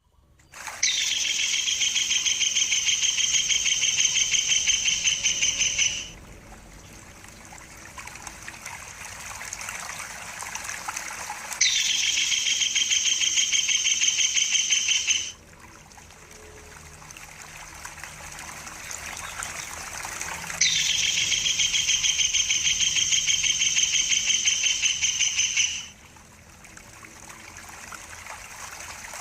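Stork-billed kingfisher (tengkek buto) giving a long, rapid, high-pitched rattling trill three times, each lasting about five seconds. A steady trickle of running water sounds throughout and is heard alone in the gaps between the trills.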